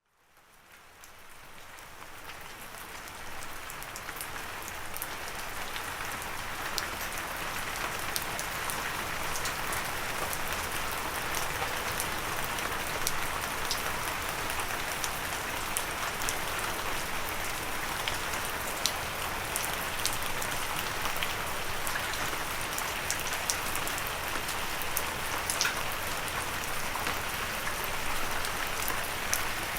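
Gentle steady rain with no thunder: a dense hiss of rainfall, with scattered individual drops ticking sharply on a surface. It fades in over the first few seconds, then holds steady.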